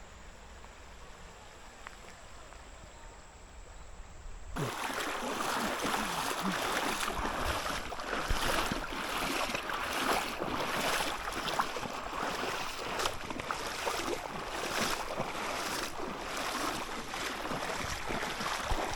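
Rushing river water, a loud steady wash with many small splashes. It comes in suddenly about four and a half seconds in, after a quieter stretch.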